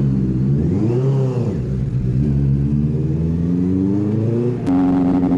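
Superbike engine running, revving up and back down about a second in, then holding a steady note. Near the end the engine note jumps abruptly to a different steady pitch.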